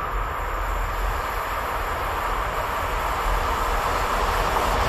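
Approaching freight train, an electric locomotive hauling tank wagons: a steady rumble that grows louder as it nears.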